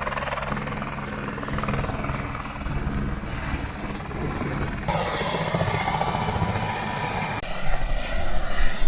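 Helicopter running, a steady engine and rotor hum, with the sound changing abruptly about five seconds in and again near the end.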